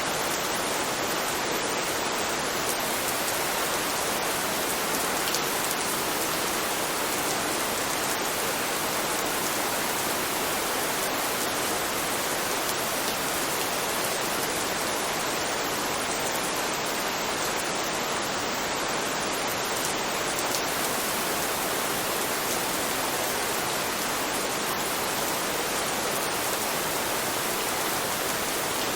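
Steady rain, a dense even hiss with faint scattered drop ticks.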